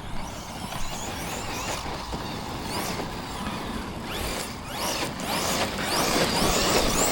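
Brushless electric motor of an Arrma Notorious RC monster truck whining up and down in pitch several times as it is driven hard, over a steady noise of tyres on dirt, getting louder towards the end.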